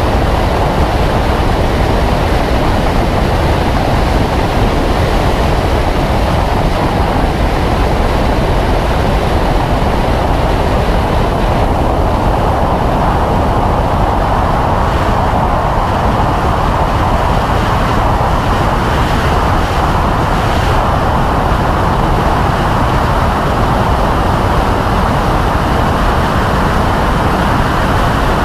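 BMW M3 E92's 4.0-litre V8 with an Akrapovic Evolution exhaust running at high revs under throttle, around 5,000 to 6,400 rpm in fifth gear, mixed with a steady rush of wind and tyre noise at racing speed.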